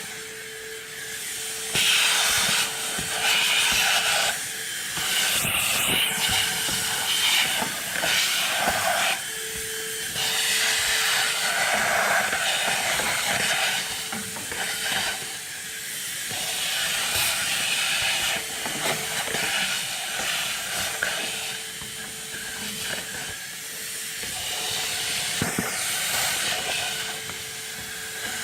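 AUDEW cordless handheld vacuum running: a steady motor whine under a hiss of rushing air that swells and fades as the nozzle is moved about.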